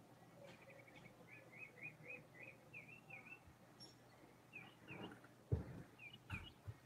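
Faint bird chirping: a quick run of about seven short chirps, then a few more in pairs. Two dull thumps come in the second half.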